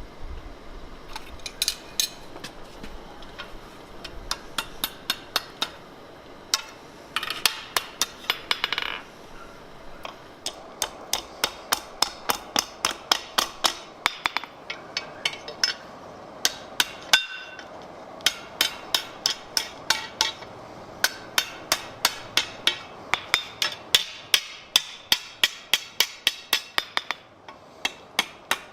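Blacksmith's hand hammer striking steel on an anvil in steady runs of ringing blows, about three a second, with short pauses between runs.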